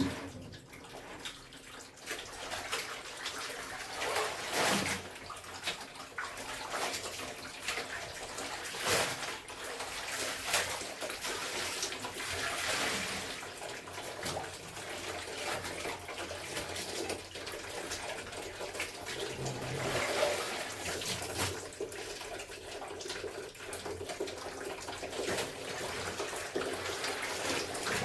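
Clothes being washed by hand in water: continuous sloshing and swishing, with a few louder splashes now and then.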